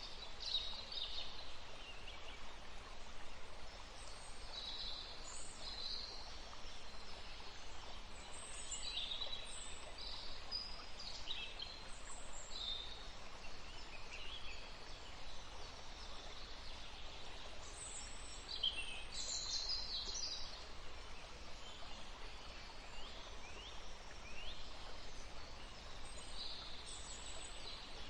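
Several small birds chirping and trilling in short high calls scattered throughout, over a steady background hiss.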